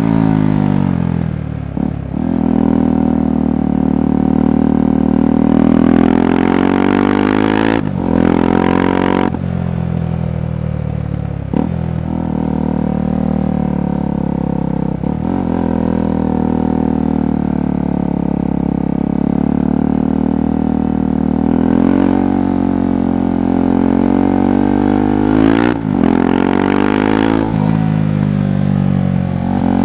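KTM 390 Adventure's single-cylinder engine and exhaust under way, the revs rising and falling with several quick breaks where the rider shifts gear.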